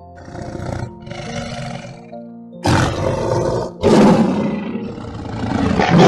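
Tiger roaring and snarling in about five rough calls, quieter at first, with the three loudest in the second half.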